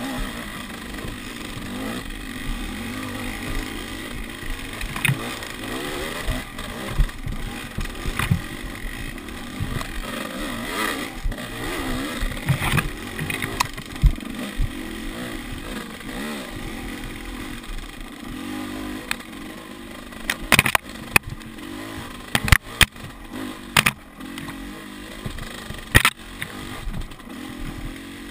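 Enduro dirt bike engine running with its pitch rising and falling as the throttle is worked, with a run of sharp knocks and clatter about two-thirds of the way in.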